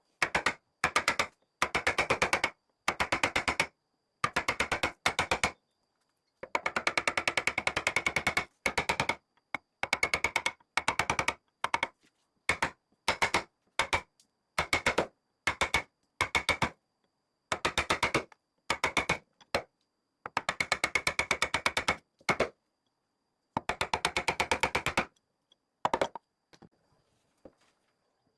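Rapid clicking, many small sharp clicks a second, in bursts of one to three seconds with silent gaps between; it thins out to a few scattered clicks near the end.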